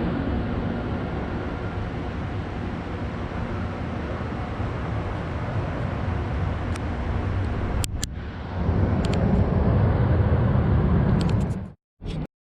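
Jet airliner noise at an airport: a steady low rumble that gets louder about two-thirds of the way through, then cuts off suddenly near the end.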